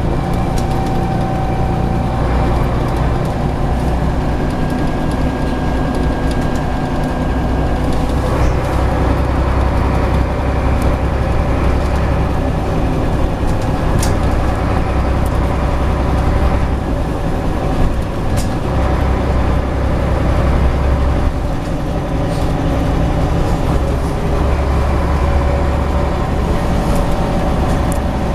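Scania CN94UB Omnicity single-deck bus running under way, its engine a steady low hum whose pitch shifts every few seconds. A few sharp rattles or clicks come through, about halfway in and again a few seconds later.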